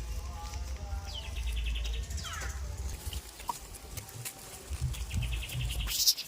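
Small birds chirping in short rapid runs, about two seconds in and again near the end, with a quick falling call between, over a steady low rumble.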